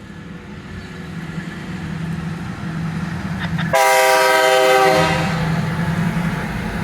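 Train horn, a multi-tone locomotive-style air horn on a passing Loram rail grinder, gives one blast of about a second and a half near the middle. Under it the engine rumble of the grinder train grows steadily louder as it approaches.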